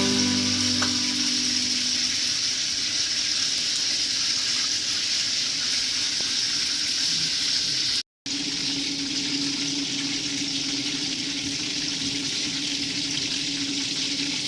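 Food sizzling steadily as it fries in hot oil in a pan, with a low steady hum underneath. The sound breaks off for a moment about eight seconds in, then carries on.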